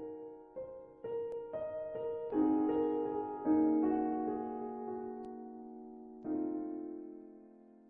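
Background music: slow piano chords, each struck and left to fade.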